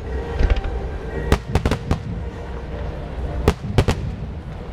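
Aerial fireworks bursting: a run of sharp bangs, a couple about half a second in, a quick cluster around the second mark and two more near the end, over a constant low rumble of distant bursts.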